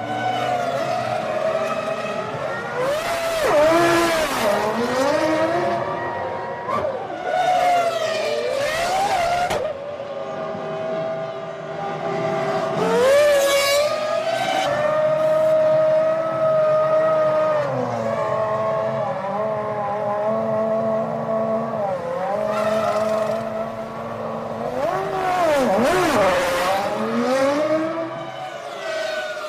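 Formula One cars' 3.0-litre V10 engines running at high revs for the whole stretch, their pitch rising and falling as the cars shift gears and sweep past, with several sharp swoops in pitch.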